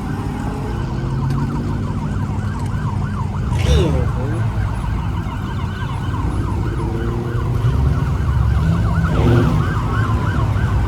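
Police sirens yelping, several fast rising-and-falling sweeps overlapping one another, over a steady low rumble.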